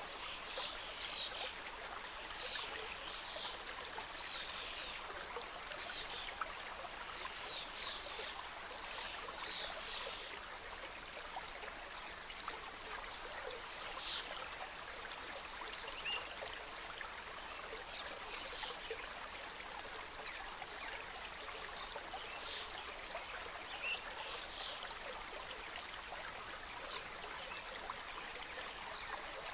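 Mountain stream cascading through a forest, a steady rush of water, with brief higher notes scattered through it, thickest in the first ten seconds.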